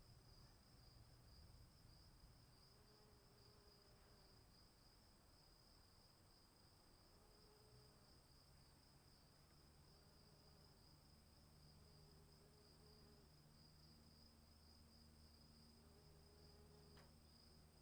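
Faint night ambience of crickets chirping in a steady high trill, with faint short low calls every couple of seconds.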